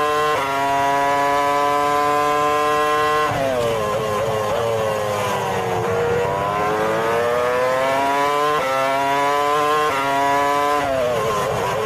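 An engine running at high revs. Its pitch holds steady, drops sharply about three seconds in, sinks and then climbs again, holds, and drops once more near the end.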